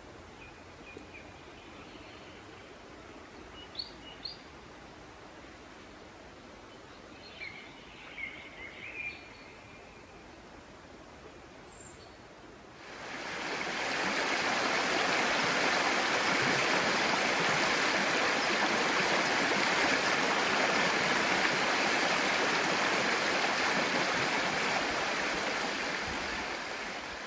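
A few short bird chirps over a quiet forest background, then about halfway through a loud, steady rush of flowing water from a stream or rapids comes in and holds, easing off at the very end.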